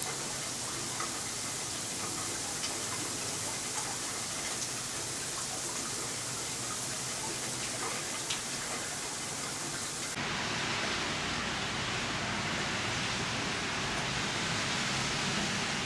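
Steady hiss of heavy winter precipitation falling, with a few faint scattered ticks. About ten seconds in the sound changes abruptly to a fuller, louder hiss with a low rumble underneath.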